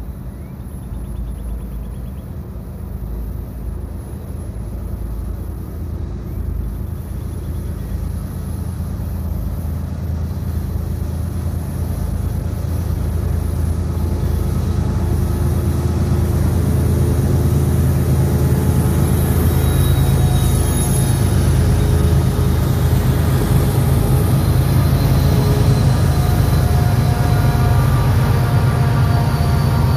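Diesel freight locomotives running with a deep, steady rumble that grows steadily louder. A faint high-pitched squeal comes in during the second half.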